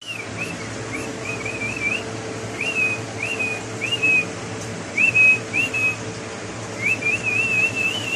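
A pet parrot whistling: a string of short whistles that glide up and down, ending in a longer wavering run near the end.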